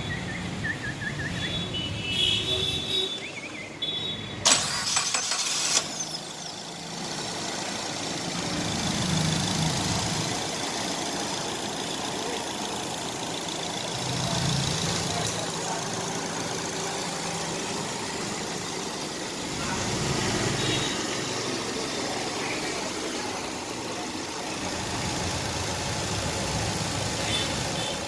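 Maruti Swift K-series petrol engine starting with a loud burst about four and a half seconds in, then running steadily at idle, its note swelling briefly a few times.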